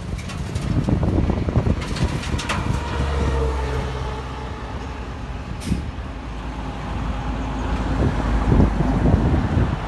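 Heavy diesel earthmoving machinery running with a steady low drone. Sharp knocks and clattering come in the first couple of seconds, and a short hiss about six seconds in.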